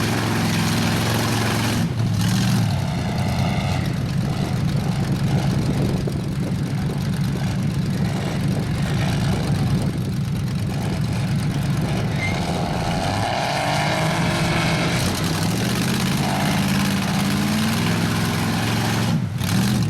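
Big mud truck engine running, its revs rising and falling several times.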